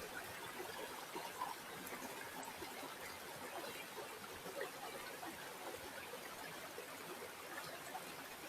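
River water flowing steadily, a continuous babble of many small trickles and gurgles.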